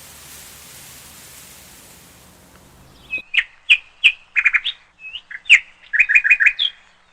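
Faint steady hiss of breeze on the microphone, cut off abruptly about three seconds in. Then a bird calls for about three and a half seconds: a quick series of sharp chirps and short rapid trills.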